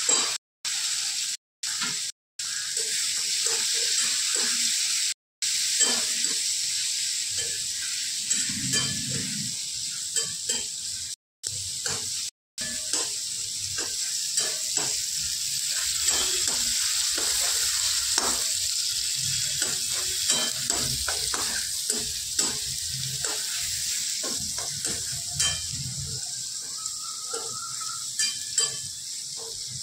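Chopped tomatoes and onions sizzling in oil in a wok on a gas stove, with a metal spatula stirring and clicking against the pan. The sizzle is steady, and the sound cuts out briefly a few times in the first half.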